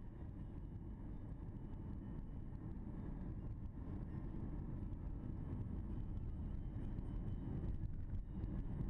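Muffled low rumble of a car's engine and road noise heard from inside the cabin, steady and slowly growing louder.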